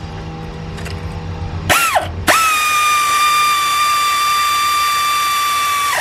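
Power tool motor spinning, as when running down brake caliper or bracket bolts. A short whine winds up and back down about two seconds in, then after a brief pause the tool runs at a steady high pitch for nearly four seconds and stops abruptly.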